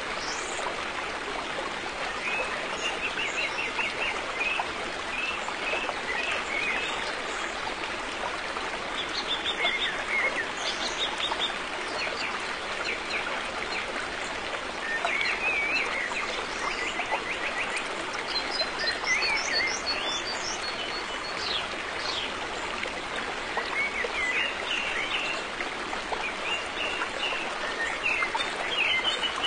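A river flowing steadily, with birds calling over it in repeated chirps and short rapid trills.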